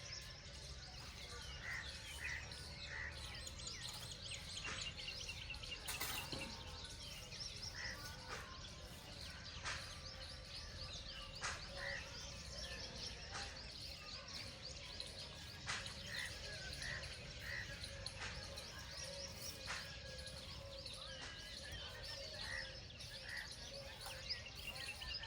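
Birds chirping and calling over a low steady rumble, with short repeated calls and scattered sharp clicks.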